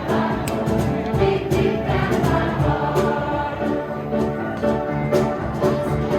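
A choir singing a gospel song over instrumental backing with a steady beat.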